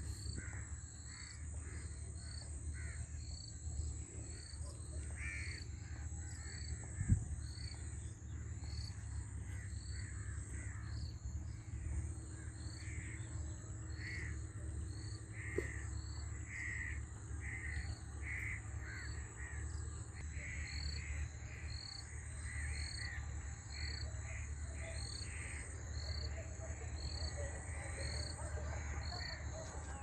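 Birds giving harsh, caw-like calls again and again, over a steady high insect drone and a regular high ticking call. A single knock sounds about seven seconds in.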